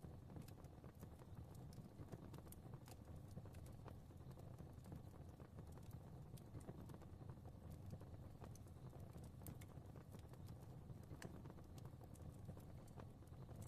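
Fire in a fireplace crackling faintly: irregular small pops and snaps over a low, steady rumble of the flames.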